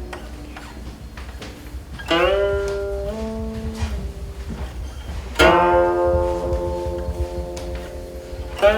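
Guqin, the seven-stringed Chinese zither, played solo. Two strongly plucked notes come about two and five seconds in, each sliding up in pitch and then held, ringing out long. Another note is plucked right at the end.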